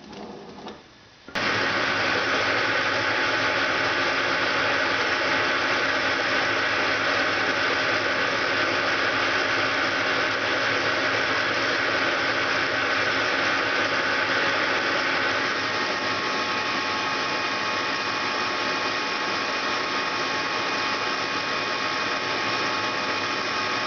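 Metal lathe running steadily while turning the outside diameter of a cast iron piston, a continuous machine hum mixed with cutting noise. It starts abruptly about a second in.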